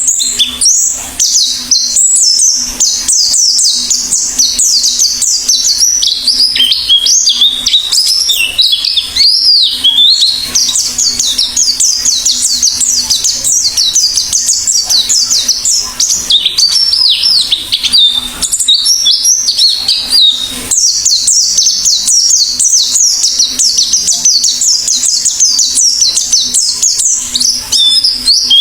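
White-eye (pleci) singing at full pace: a long, fast, high twittering warble of rapid chirps, with only a brief break about two-thirds of the way through.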